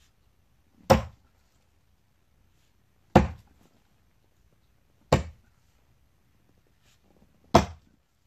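Axe chopping into the trunk of a thick, long-dead tree: four single strokes, about two seconds apart, each a sharp strike.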